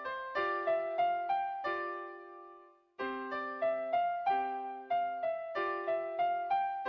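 Solo piano playing a simple beginner-level children's piece, a stepwise melody over held lower notes. A phrase ends about two seconds in and its last chord dies away, then after a brief gap the next phrase starts about three seconds in.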